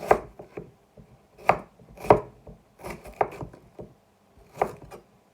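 Kitchen knife slicing a white onion on a chopping board: about six separate knife strikes against the board at uneven intervals.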